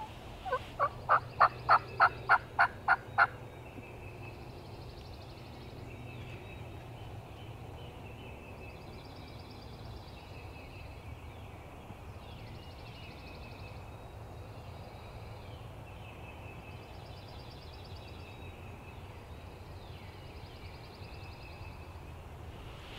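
Turkey calling: a loud run of about ten quick, evenly spaced notes lasting about three seconds, followed by faint songbirds singing repeated phrases in the background.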